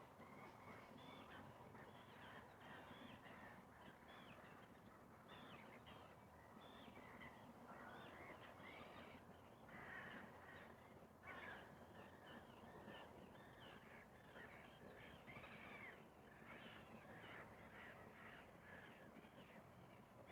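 Faint chorus of many birds calling at once, a dense, unbroken stream of short, harsh, overlapping calls, over a low background hush.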